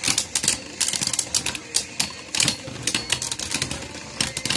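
Spinning Beyblade Burst tops clashing in a plastic stadium: rapid, irregular clacks of hits, Hyperion Burn landing big hits.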